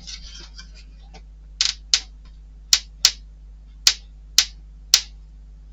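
About seven sharp, separate clicks, several in quick pairs, as small metal and plastic parts of a model engine kit are handled and fitted together, over a low steady hum.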